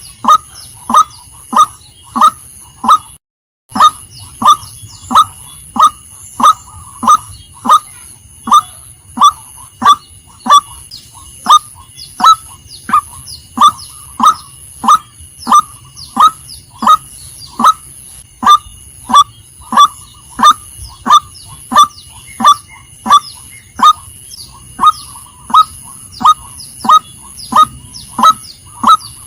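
Female white-breasted waterhen calling: a loud, short note repeated evenly about one and a half times a second, with a brief dropout a few seconds in.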